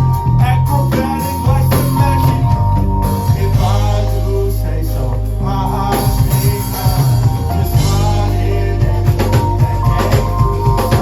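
Live band music played loud through a club PA, with heavy bass, drums and guitar, and some singing.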